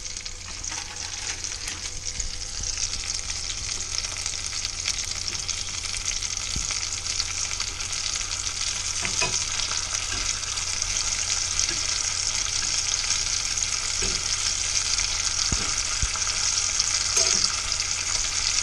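Sliced sausage sizzling in a lot of oil in a small cast-iron skillet, close to shallow deep-frying, with a few light clicks of a metal utensil stirring the pieces against the pan. The sizzle grows gradually louder.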